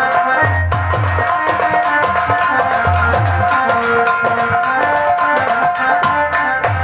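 Instrumental passage of North Indian folk music: hand drums play a driving rhythm of deep strokes under a sustained melody instrument.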